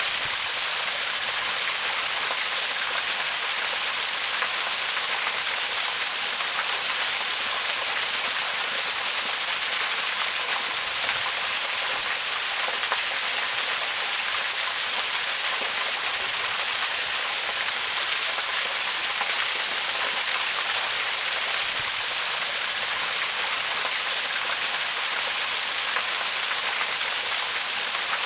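Waterfall, its water falling in a steady, unbroken hiss that is mostly high-pitched, with little low rumble.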